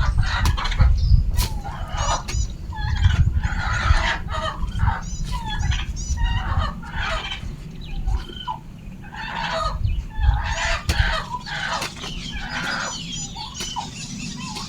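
Domestic chickens clucking and calling over and over in short repeated calls, over a low rumble that fades about eleven seconds in.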